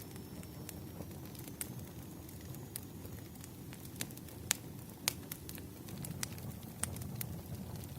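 Wood fire burning: a low, steady rumble with irregular sharp crackles and pops, the loudest about four and a half and five seconds in.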